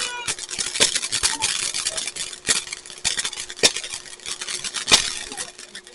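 Fireworks crackling: a dense, irregular rattle of small crackles with a few sharper, louder cracks among them, dying away near the end.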